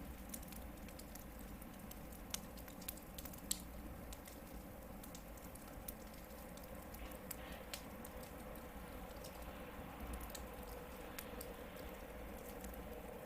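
Hardwood campfire burning with a soft steady hiss and scattered sharp crackles and pops, a couple of louder snaps a few seconds in.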